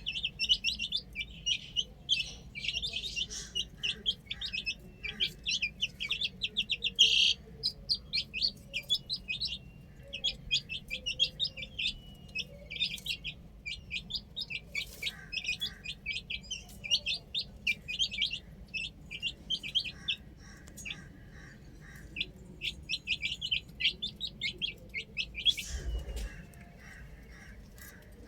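A group of baby chicks peeping in rapid, high, short chirps that overlap almost without pause, thinning out briefly about two-thirds of the way through. A single low thump comes near the end.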